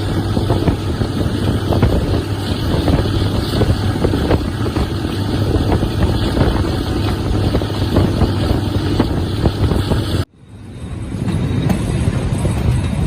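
Diesel train engine running close by with a steady deep hum, with some wind on the microphone. About ten seconds in the sound cuts off abruptly, then train noise fades back in.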